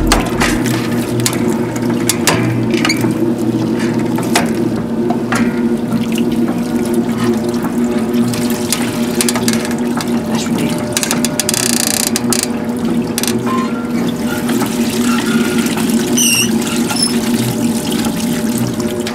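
1950s Maytag wringer washing machine running: a steady motor hum under splashing, pouring water, with scattered clicks.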